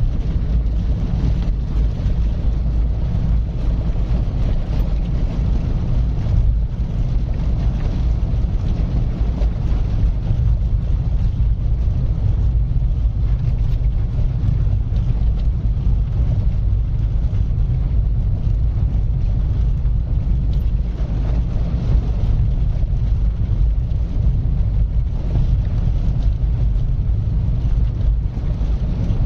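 Car driving steadily along a road: a constant low rumble of engine and tyres, with no change in speed or pitch.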